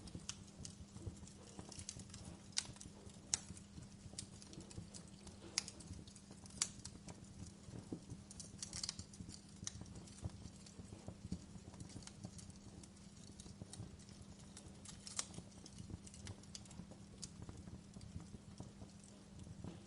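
Wood fire burning in a fireplace, crackling with irregular sharp pops, a few louder snaps among many small ones, over a low steady burning noise.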